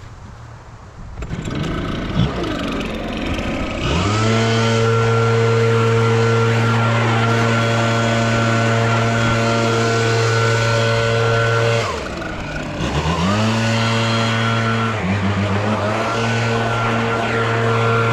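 Small petrol engine of a lawn-care power tool revving up to full throttle and running steadily. It eases off briefly about two-thirds of the way through, then revs back up.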